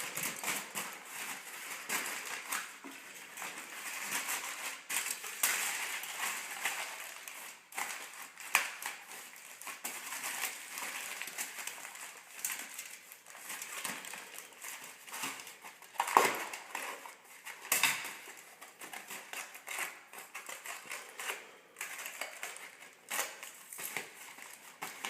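Aluminum foil being crinkled and pressed by hand around a cup: an irregular run of crackling, with a couple of sharper, louder crunches about two-thirds of the way through.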